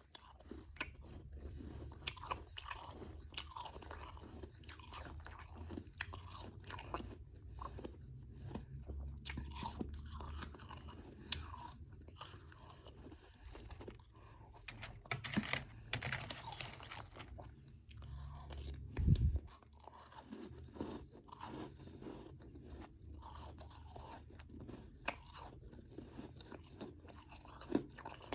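A person chewing and biting frozen powdery ice and chunks of ice close to the microphone, in a run of irregular crunches. A strong low thump comes about two-thirds of the way through.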